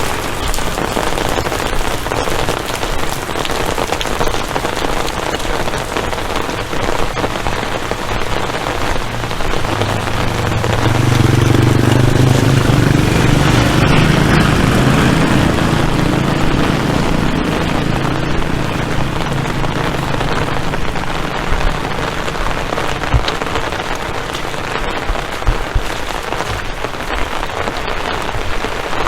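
Steady rain falling and drumming on surfaces. A louder low rumble swells up about a third of the way in and fades out again past the middle.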